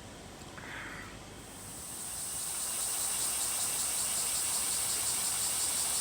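Insects buzzing in a high, steady chorus that swells in over the first two seconds and then holds.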